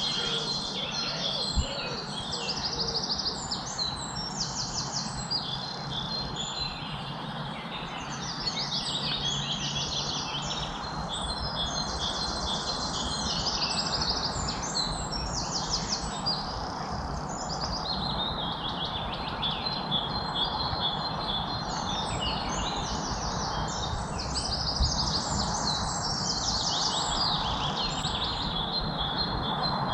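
Several songbirds singing over one another, with quick repeated trills and chirps, over a steady background hiss of ambient noise.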